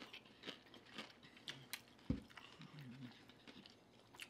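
Close-up chewing and crunching of battered deep-fried salmon, with scattered sharp mouth clicks and crackles. A single low thump comes about two seconds in, followed by a brief low hummed murmur.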